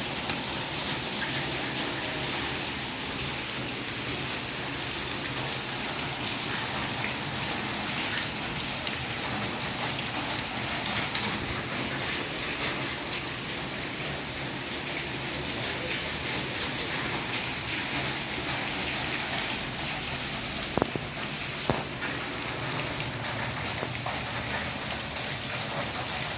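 Heavy rain falling steadily, a dense even hiss of rain on surfaces, with a couple of sharp knocks near the end.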